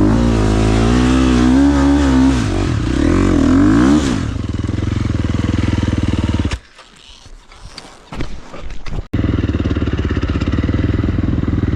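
Motocross bike engine running, its revs rising and falling for a few seconds and then settling steady. Past the middle the engine sound drops away for a couple of seconds with a few knocks, then comes back running steady.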